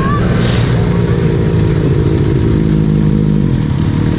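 Motorcycle engine running steadily at low revs, its pitch holding level.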